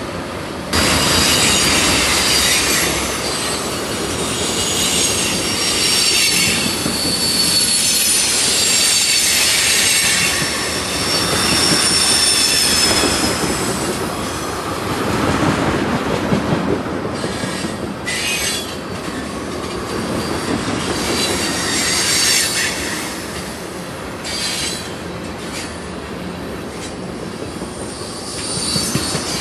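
Freight train of ethanol tank cars rolling past close by: a steady rumble of steel wheels on rail, with high-pitched wheel squeal that comes and goes. The sound gets louder about a second in.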